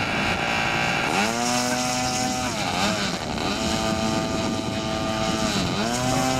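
RC model airplane engine and propeller revving during a taxi race: the pitch climbs steeply about a second in, holds high, then drops and climbs back twice as the throttle is eased and opened again.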